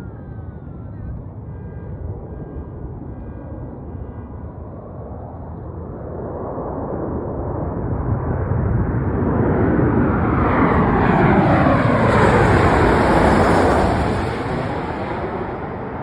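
An airliner passing low overhead as it comes in to land. Its engine rush builds over several seconds, peaks with a sweeping, phasing tone as it passes, then fades.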